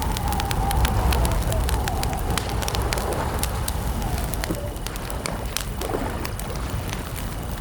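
Wood campfire crackling, with frequent sharp pops and snaps over a low, steady rumble.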